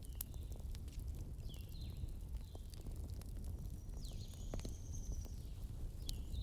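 Wood fire in a fireplace crackling, with scattered sharp pops over a steady low rumble. Several short, high, falling chirps sound over it.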